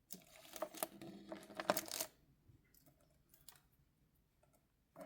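Plastic packaging crinkling, clicking and squeaking as a diecast model plane is worked out of its plastic tray, for about two seconds, then a few faint clicks.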